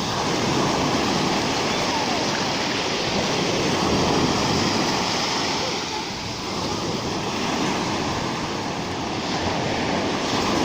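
Rough sea: surf breaking and washing in with a continuous roar that swells and ebbs with each wave, easing briefly about six seconds in.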